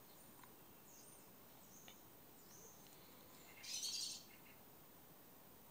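Faint birds chirping in short high calls over near silence. About three and a half seconds in comes a brief burst of noise lasting about half a second as the Monti Super fixed-spool reel is handled and turned.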